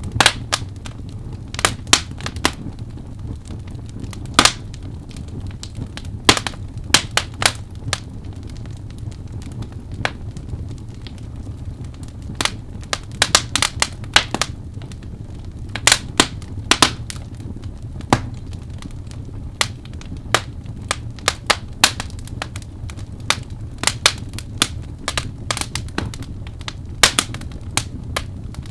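Crackling fire: irregular sharp pops and snaps, some in quick clusters, over a steady low rumble.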